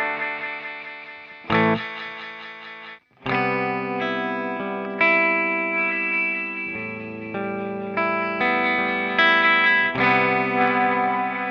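Electric guitar chords played through an Old Blood Noise Endeavors Sunlight Stereo pedal, on a delay preset swept in with an expression pedal. Chords are struck and fade, the sound drops out briefly about three seconds in, then new chords ring on in a long sustained wash with further strikes layered on top.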